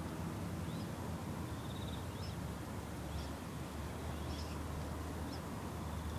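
Outdoor ambience: a steady low rumble, with faint high bird chirps about once a second and one short trill.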